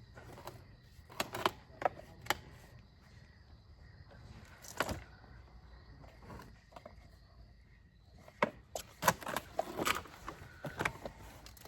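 Scattered clicks, knocks and rustles from handling a child's car seat: buckles, straps and the plastic shell being fitted. A quicker run of sharper clicks comes in the last few seconds.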